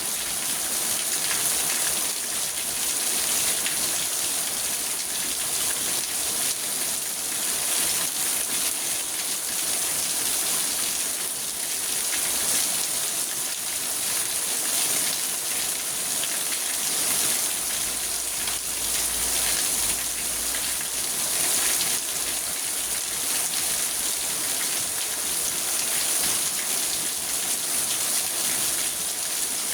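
Heavy rain drumming on a car's roof and windows, heard from inside the car: a steady, dense patter of countless drops.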